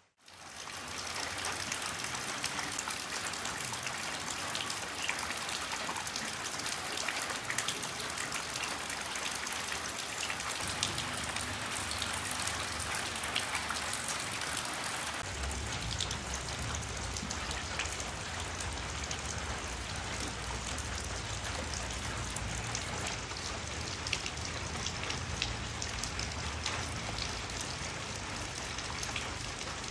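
Steady rain falling, with individual drops ticking sharply on surfaces. It rises in from silence right at the start, and about halfway a low rumble joins the rain.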